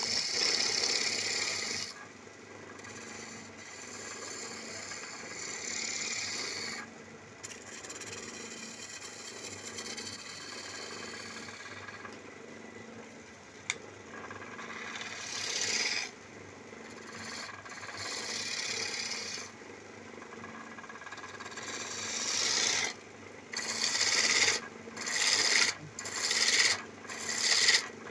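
Wood lathe running while a hand tool cuts and scrapes the spinning wood in long swelling passes, over a faint steady motor hum. Near the end the cuts come as short strokes about once a second.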